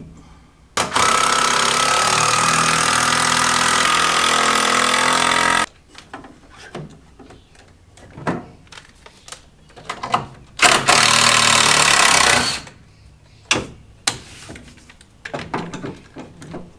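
Handheld power drill-driver running under load into wood in two bursts, a long one of about five seconds starting near the start and a shorter one of about two seconds past the middle, with knocks of handling in between.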